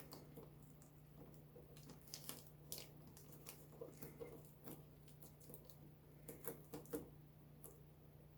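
Faint, scattered crackles and ticks of Tuck Tape's strong adhesive as the tape is pulled and pressed down, over a steady low hum.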